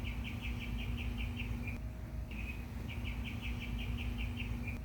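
A bird singing the same short song over and over: a brief high note, then a fast trill of chirps, about every three seconds. A steady low hum sits under it.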